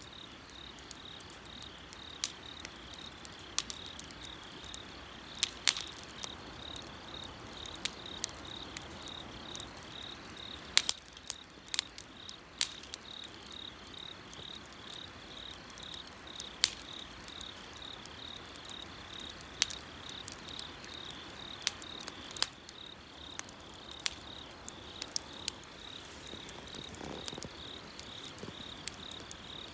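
Bonfire wood crackling with sharp, irregular pops over a steady, evenly pulsing high chirp of insects.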